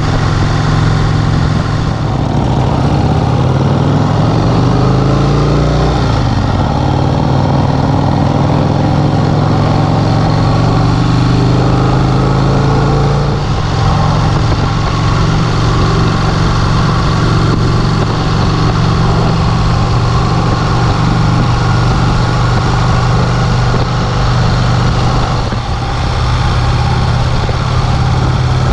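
1951 Vincent Rapide's 998 cc V-twin engine running on the road. Its pitch rises as it accelerates, falls back about six seconds in as a gear is changed, and rises again. From about halfway it holds a steady cruising note.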